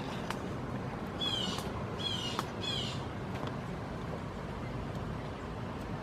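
Three short, harsh calls, each sliding downward, about a second in and close together, over a steady low background rumble.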